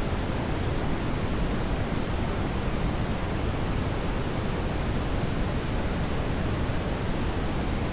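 Steady brown noise: an even, unchanging rush heaviest in the low end, with no events in it.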